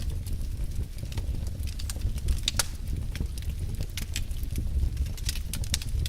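Fireplace wood fire burning with a steady low rumble and irregular sharp crackles and pops, the loudest about two and a half seconds in.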